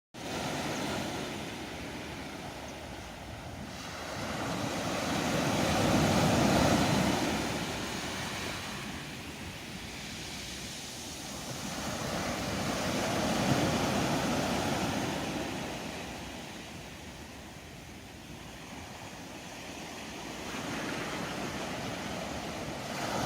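Ocean waves breaking and washing in, the surge swelling and fading slowly three times, roughly every seven seconds.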